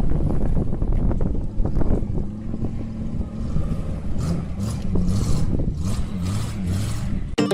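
Heavy vehicle engine running with a low rumble; from about halfway, several short hissing bursts come in over it.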